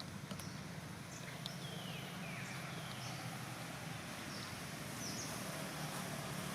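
Outdoor ambience: faint high-pitched animal chirps, a few falling in pitch, over a steady low hum.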